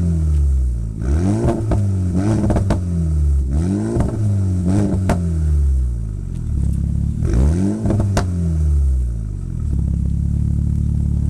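Renault Mégane R.S.'s turbocharged four-cylinder free-revved at a standstill: about four quick blips that rise and fall in pitch, with sharp pops from the exhaust as the revs drop. It then settles to a steady idle near the end.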